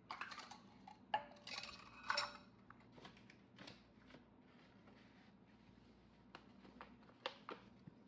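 Kitchenware clinking and knocking: two louder, ringing clinks of dishes or utensils about one and two seconds in, then scattered light clicks and taps, all faint.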